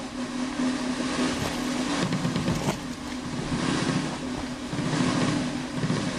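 Mountain bike riding down a rocky downhill trail: tyres rattling over rock and wind rushing past the camera, with a steady buzz running underneath.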